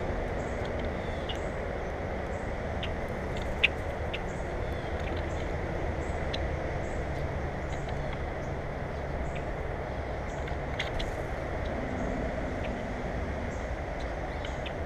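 Faint short, high bird chirps scattered over a steady low rumble, with one sharp click about three and a half seconds in.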